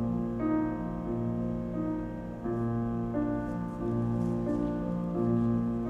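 Solo piano accompaniment playing a slow, gentle interlude between sung phrases, with soft held chords changing about every half second.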